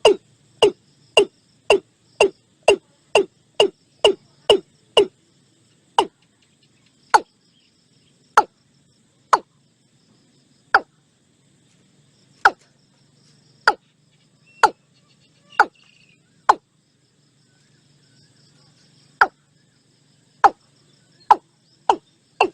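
Watercock calling: a series of short, clipped, falling "kok" notes, about two a second at first, slowing to spaced single notes, then quickening again after a pause near the end. A faint, steady, high insect trill runs underneath.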